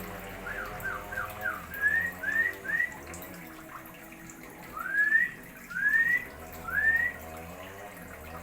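Clear whistled notes: four quick falling whistles, then a run of rising slurred whistles spaced about a second apart.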